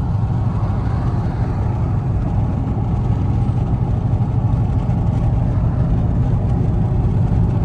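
Dodge Charger Scat Pack's 392 Hemi V8, fitted with catless mid-pipes, droning steadily while cruising.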